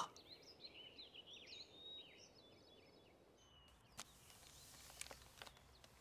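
Faint chirping of small birds in quiet outdoor air, many short twittering calls over the first three seconds or so, then a few soft clicks in the second half.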